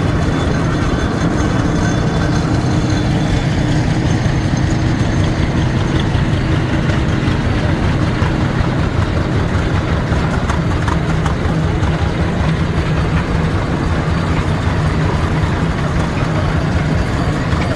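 A large engine running steadily with an even low drone.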